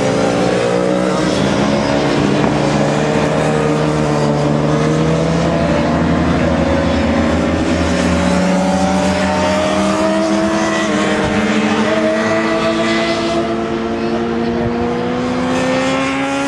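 Several sport motorcycle engines running hard on a race track, their notes climbing steadily as they accelerate, with a gear shift about eleven seconds in.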